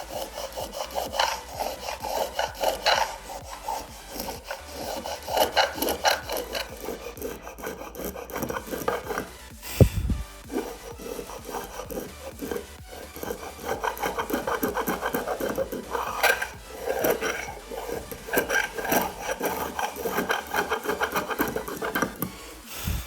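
Rapid, irregular rasping strokes of a tool scraping across wood, with a single sharp knock about ten seconds in.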